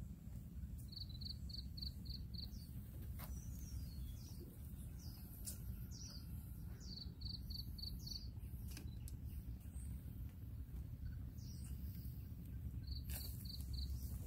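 A forest bird calling: a quick run of five or six short, even, high notes, given three times, with other slurred calls between, over a steady low rumble and a few faint clicks.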